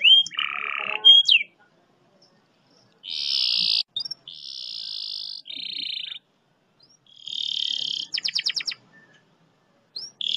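Domestic canary singing the long 'speed roll' of a training song: buzzy, high rolls and a fast trill of evenly spaced notes, in phrases of about a second with short silences between.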